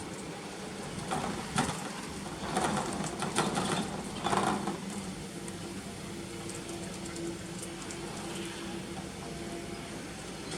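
Strong gusty wind buffeting the microphone, with several loud irregular surges in the first half. A faint steady hum runs through the second half.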